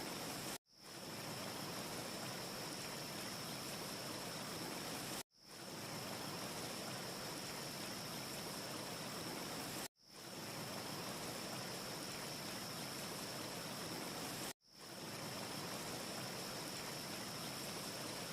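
Steady wind-like rushing hiss with a thin high whistle, cutting out abruptly four times, about every four and a half seconds, and fading back in each time: a short ambience recording looped over and over. No fire crackle stands out.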